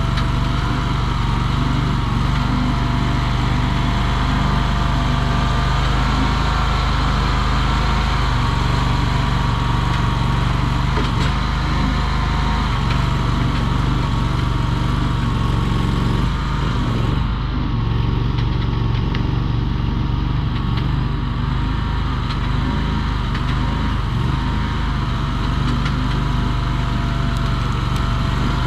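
Mini skid steer's small engine running steadily at working speed, with a higher whine that wavers slightly over the engine note.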